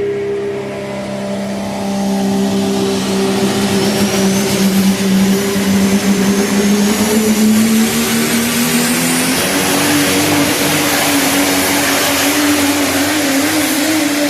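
Diesel Dodge pro stock pulling truck's engine running hard under load during a pull, its pitch climbing slowly. A thin high whine rises in pitch over the middle of the run.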